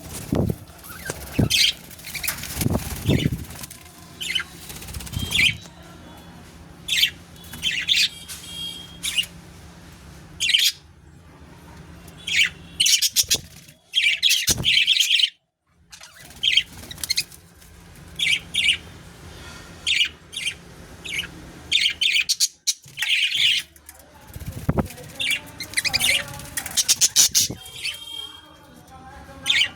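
Budgerigars chirping and chattering in many short, quick calls, with a few low thumps in the first few seconds and again near the end.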